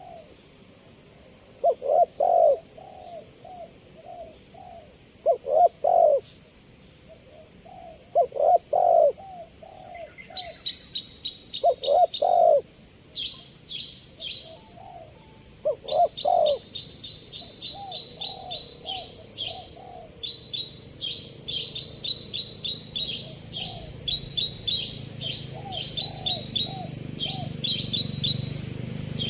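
Spotted dove (tekukur) cooing in repeated phrases about every three seconds, loud in the first half and softer later. From about a third of the way in, a small bird chirps in quick, rapid series of high notes over it.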